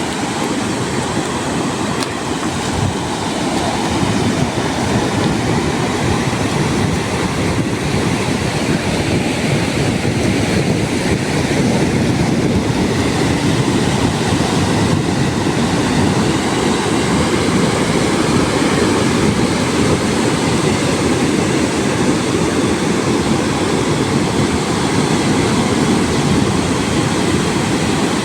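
Ocean surf and wind making a steady, loud rushing noise that grows a little louder about four seconds in.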